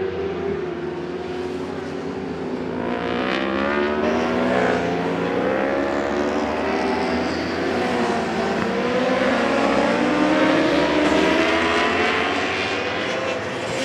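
Several endurance racing motorcycles running at high revs, their engine notes overlapping. The pitch mostly climbs as the bikes accelerate, with a few quicker rising sweeps a few seconds in.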